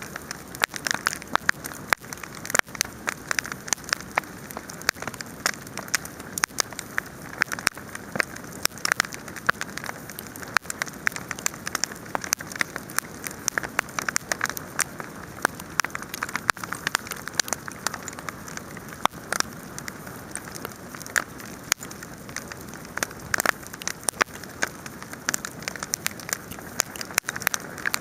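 Wood fire burning with a steady hiss and frequent, irregular sharp crackles and pops.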